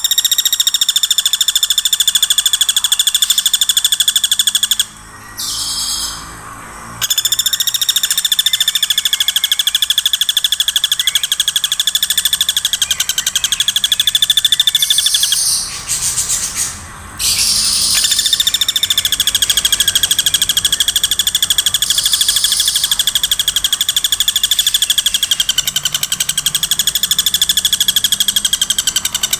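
Woodpecker calling in long, very rapid high-pitched trills, nearly without pause, broken only by two short gaps: one about five seconds in, another near the middle.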